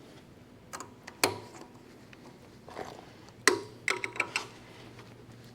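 Metal tooling clinking and knocking on a manual milling machine as the reamer is swapped for a chamfer tool: a few sharp clicks, with a louder knock followed by a quick run of clinks a little past the middle.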